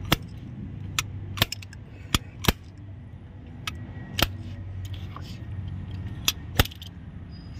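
Sharp metallic clicks and clinks, about eight scattered strikes, as an injector puller tool is worked against a stuck high-pressure fuel injector. A low steady hum runs underneath.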